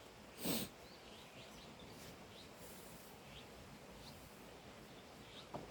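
Faint, scattered bird chirps over a quiet outdoor background, with one brief rustle about half a second in and a small click near the end.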